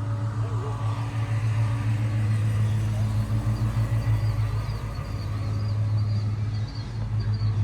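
A car engine running steadily at idle, with a strong, steady low tone.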